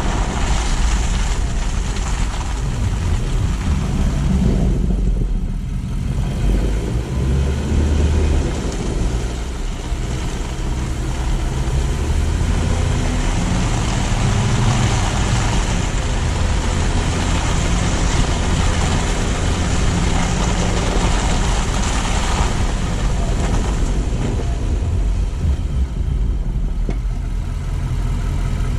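Car driving through city streets: a steady low engine hum under a dense hiss of tyre and road noise, the hiss easing briefly a few seconds in and again near the end.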